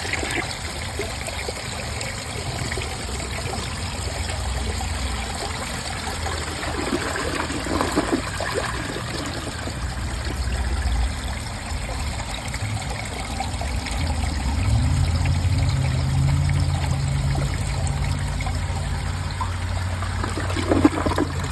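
2004 Briggs Altima dual-flush toilet flushing on its right-side button, with water rushing and trickling through the bowl. A low steady hum sets in about two-thirds of the way through.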